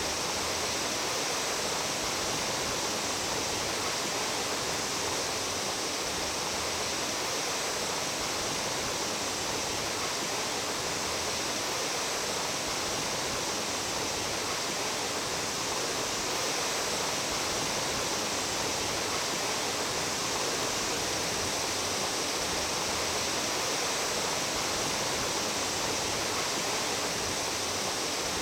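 Mountain stream water rushing steadily, an even, unbroken wash of flowing water.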